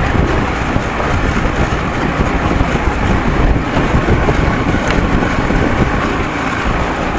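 Boat under way, its 55 hp Evinrude two-stroke outboard running steadily, with heavy wind buffeting the microphone and water rushing past the hull.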